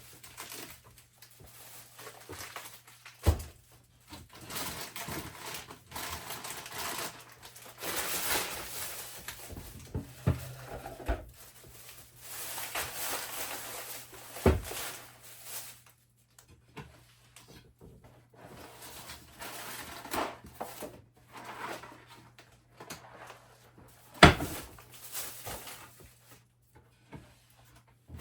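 Clattering and rummaging as things are taken out of old wooden kitchen cabinets, with doors and drawers knocking. There are sharp knocks about 3 s and 14 s in, and the loudest about 24 s in.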